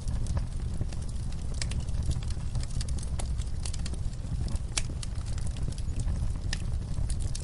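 Wood fire in a fireplace burning with a steady low rumble and irregular crackles and pops, one sharper pop about halfway through.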